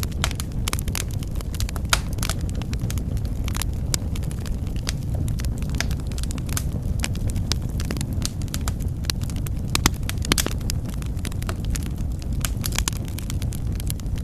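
Wood fire burning in a fireplace: a steady low rumble of flame with frequent irregular crackles and sharp pops, a few louder pops about two seconds in and around ten seconds in.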